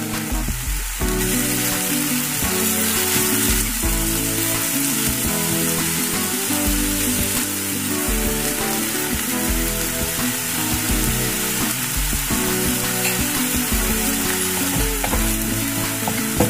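Ground spice paste sizzling in a hot nonstick frying pan while a wooden spatula stirs it continually, frying until fragrant, with background music underneath.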